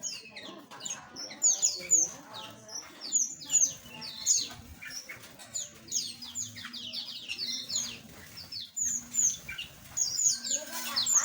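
A flock of small aviary birds chirping busily: many short, high chirps, most sliding downward in pitch, overlapping one another throughout.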